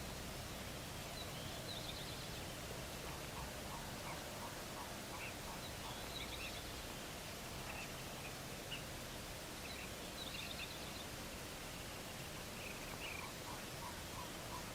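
Faint bird calls over a steady outdoor hiss. A quick high trill comes back every few seconds, with scattered chips, and runs of short, evenly spaced lower notes early on and again in the second half.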